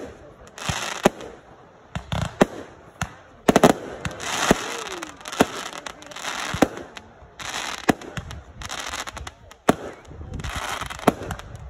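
Aerial fireworks shells launching and bursting overhead: an irregular string of sharp bangs, with stretches of crackling hiss between them.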